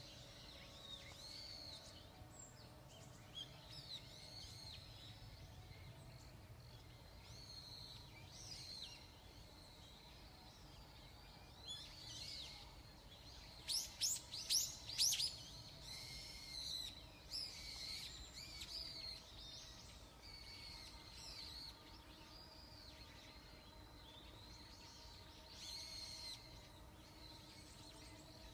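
Birds chirping and calling, with a louder run of sharp, quickly falling calls about halfway through, over a faint low background hum.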